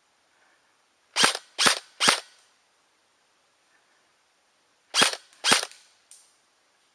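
Airsoft gun firing single shots: three sharp pops about half a second apart, then two more some three seconds later, each with a short ringing tail. A fainter, thinner click follows the last pair.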